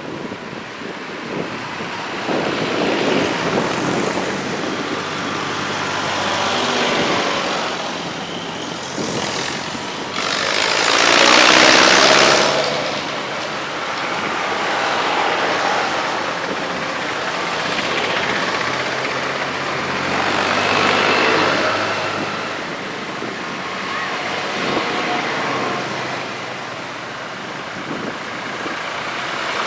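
Vintage tractors driving past one after another, each engine swelling and fading as it passes; the loudest goes by about eleven to twelve seconds in, its pitch dropping as it passes.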